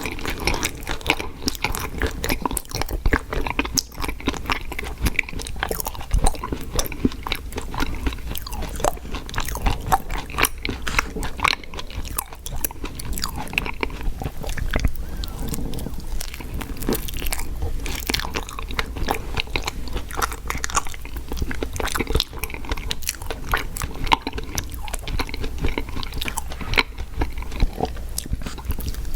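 Close-miked chewing and biting of fast food, with crunches and a dense run of wet mouth clicks that goes on without pause.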